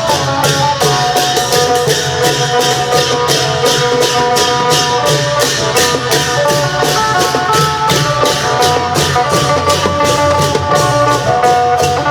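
Isan klong yao long-drum band playing with a phin lute: a fast, steady beat of drums and cymbals under a plucked phin melody.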